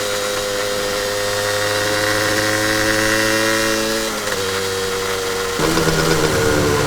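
Honda NS-1 two-stroke motorcycle engine running at a steady idle, its pitch creeping up slightly. The sound changes abruptly about four seconds in and again near the end, turning rougher.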